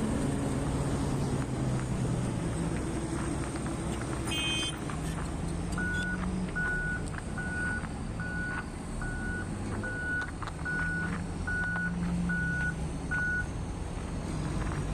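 Heavy mining machine's diesel engine running steadily while its reversing alarm sounds ten evenly spaced beeps, about one every three-quarters of a second, as it backs up. A brief high squeal comes just before the beeps start.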